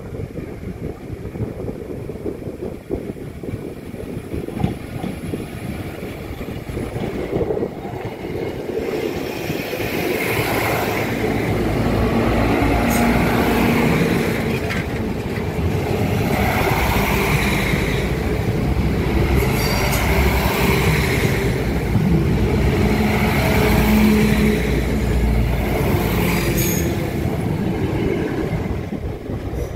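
A diesel passenger train passes slowly over the level crossing. It is faint at first, then from about nine seconds in its engine hum and wheel noise grow loud and stay loud, swelling every few seconds as the carriages go by.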